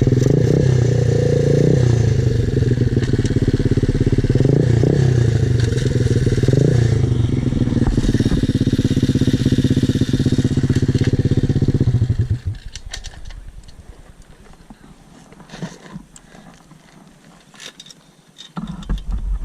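Pit bike's small single-cylinder engine running loud and close, with a few short revs, then winding down and stopping about twelve seconds in. After that come faint clicks and scrapes, and a low rumble starts up again near the end.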